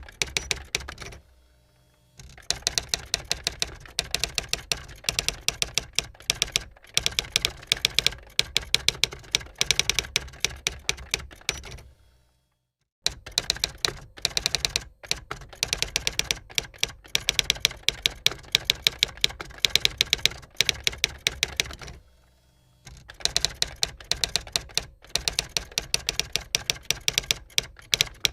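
Typewriter keys striking in fast, steady runs of many clicks a second, with brief pauses about a second in, near the middle and a little before the end.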